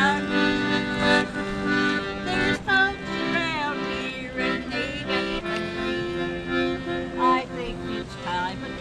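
Accordion playing a tune with held chords, a few voices briefly heard over it.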